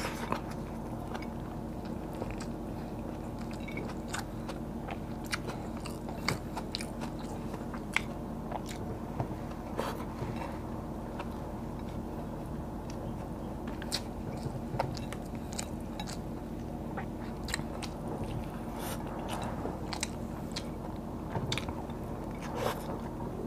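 Close-miked chewing, biting and lip smacks of a person eating rice and fried food by hand, with scattered sharp mouth clicks throughout, over a steady low hum.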